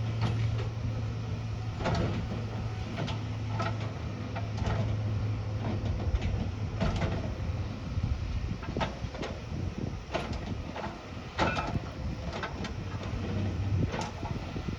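A heavy earthmoving machine's diesel engine running steadily, with frequent irregular knocks and clanks over it.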